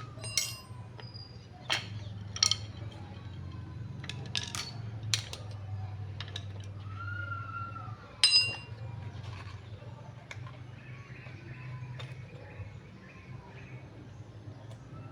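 Scattered sharp metallic clinks and taps, the loudest about eight seconds in, over a low steady hum, with a short rising-and-falling call about seven seconds in.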